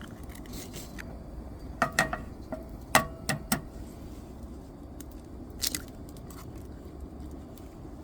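A few light clinks and knocks of camp tableware or cookware, some ringing briefly, in a cluster about two seconds in and again about three seconds in, over a steady low background noise, with a short hiss near the end.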